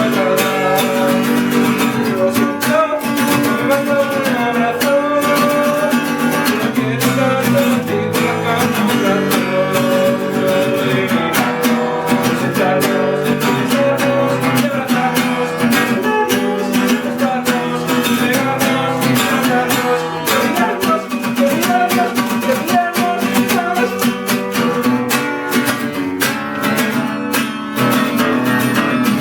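Acoustic guitar music, strummed and plucked, playing steadily throughout.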